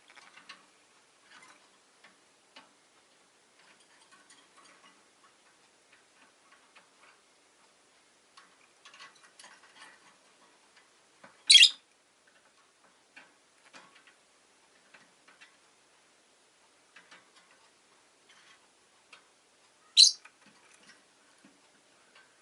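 Rosy-faced lovebird giving two short, sharp high calls about eight seconds apart, between faint scattered ticking clicks.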